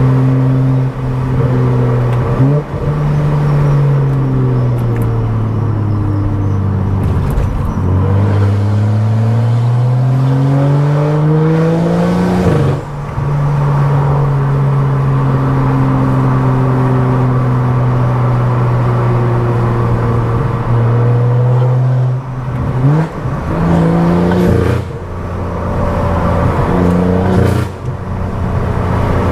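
Stage 2+ tuned BMW 535i's turbocharged inline-six and loud aftermarket exhaust while driving. The engine note sinks as the car slows, then climbs steadily under acceleration until a sharp break at a gear change. It then holds steady at cruise, and a few quick shifts and revs come near the end.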